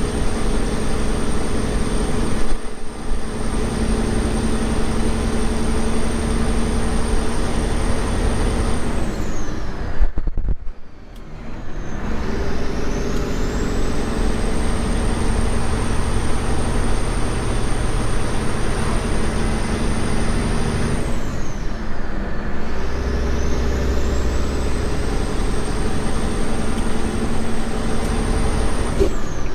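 Semi truck running on the road, its engine rumbling steadily with a high whine that falls away and climbs back again three times.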